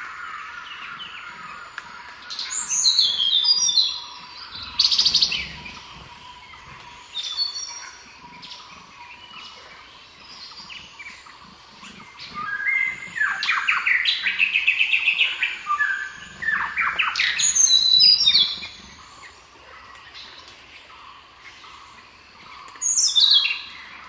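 Songbirds chirping and singing in a run of bursts of quick, high chirps and trills, with the busiest and loudest stretch in the middle and another short burst near the end.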